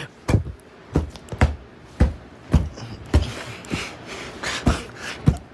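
Repeated dull thumps, about two a second, of a puppet being whacked over and over.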